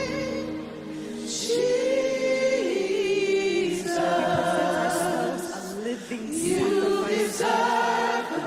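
A group of voices singing a worship song in long held notes, with little or no instrumental backing after the low bass fades in the first second.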